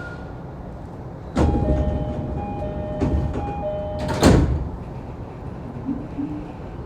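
Saikyo Line commuter train's door chime sounding, two alternating tones repeated for about three seconds as the sliding doors close, ending in a loud thud as the doors shut.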